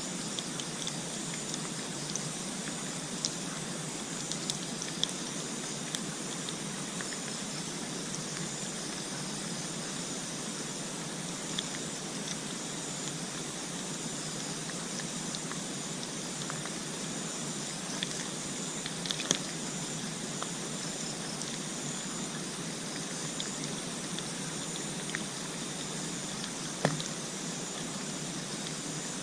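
Steady rushing, water-like noise with a faint, steady high-pitched hum above it and a few scattered sharp clicks.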